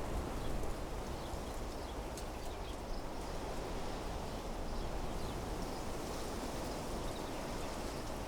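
Wind blowing through trees, a steady rushing with rustling leaves, with faint short high bird chirps scattered through it.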